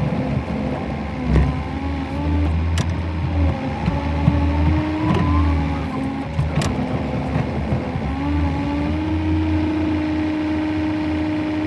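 Tractor engine running and being revved while manoeuvring, with a whine that rises and falls in pitch and a few sharp knocks.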